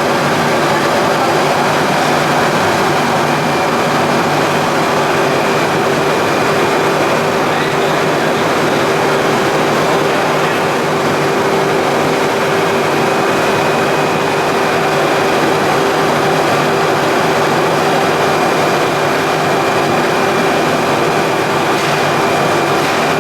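Plastics pelletizing line machinery for PE and calcium-carbonate compound running steadily: a loud, unbroken mechanical din with a steady hum and a faint high whine.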